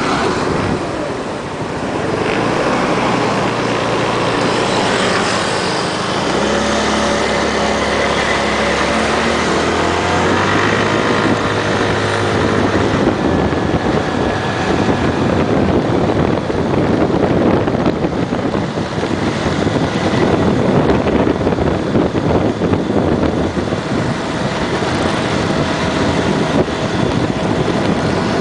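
Small motorbike engine running while being ridden, its pitch climbing in steps over the first dozen seconds, after which a steady rushing noise of wind and road covers it.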